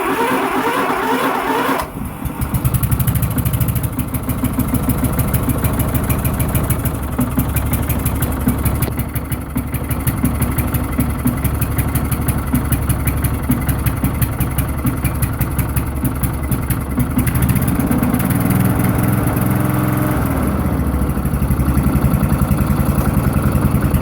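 Lawnflite 604 lawn tractor engine on a cold start: the starter cranks for about two seconds, then the engine catches and runs on choke with steady rapid firing pulses. Near the end its pitch shifts and it runs a little louder, as the choke is pushed in.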